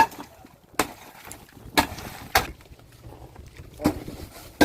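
A few sharp, irregular knocks and clatters, about five or six over the stretch, with quiet between them.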